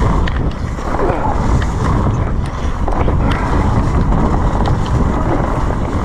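Steady wind rumble on the microphone and tyre noise from an electric mountain bike riding downhill, with frequent small clicks and knocks as the bike rattles over rough ground.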